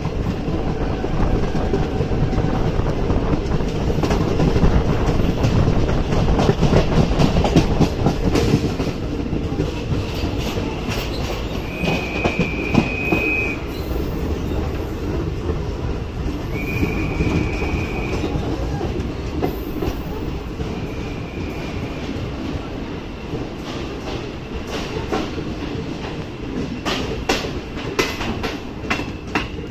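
Kaveri Express passenger coaches running into a station: a steady rumble with wheels clattering over rail joints, gradually quieter as the train slows. Several short high-pitched squeals come about halfway through, and a quick run of sharp clicks near the end.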